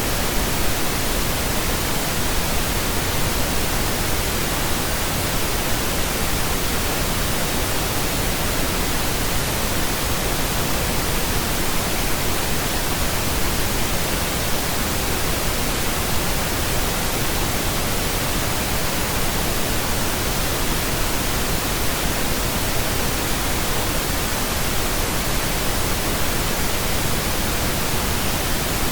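Steady synthetic pink noise: an even, unchanging hiss that spreads across the whole range from deep to high, with no tones, beats or breaks.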